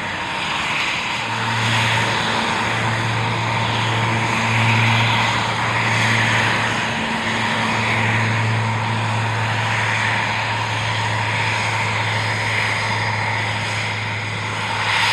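Propeller aircraft engine running at takeoff power: a steady low drone with a fainter overtone, over broad engine and air noise that swells and eases slightly.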